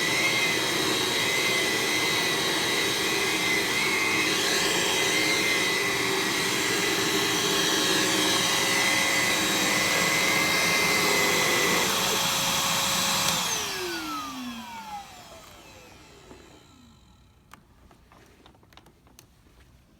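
Aerus Lux commercial upright vacuum cleaner running steadily, then switched off about two-thirds of the way through, its motor winding down in a falling whine over a few seconds. A few faint clicks follow near the end.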